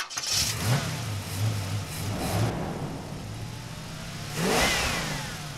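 A car engine revving, its pitch rising and falling, with the loudest swell about four and a half seconds in.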